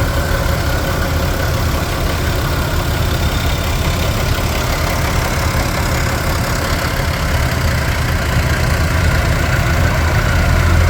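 Allis-Chalmers 210 tractor's six-cylinder turbo-diesel engine running steadily at a low, even pace.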